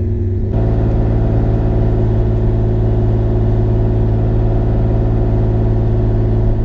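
Bobcat E35 mini excavator's engine running steadily at a constant speed, cutting in abruptly about half a second in.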